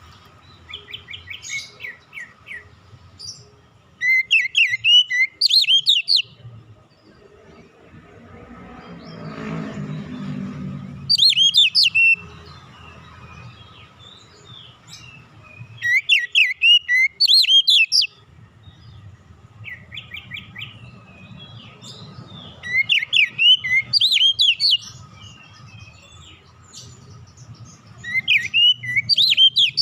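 Oriental magpie-robin (kacer) singing: loud phrases of rapid whistled and chattering notes about two seconds long, coming back every five to seven seconds, with softer twittering between them.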